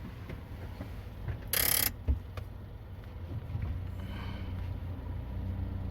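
Pickup truck engine idling with a steady low hum after parking. A short rushing noise comes about a second and a half in, followed by a sharp click.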